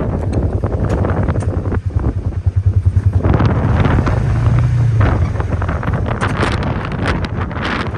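A vehicle engine running while driving, its low drone rising about four to five seconds in, with wind buffeting the microphone.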